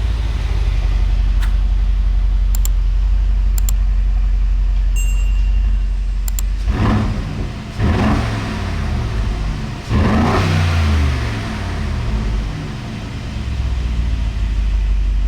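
2025 Aston Martin Vantage's twin-turbo V8 running while the car drives, a steady engine note that picks up in pitch and level twice, about seven and ten seconds in, as the car accelerates.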